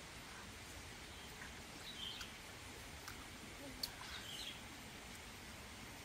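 Quiet forest ambience with faint bird chirps, once about two seconds in and again a little past four seconds, and a single small click just before the second chirp.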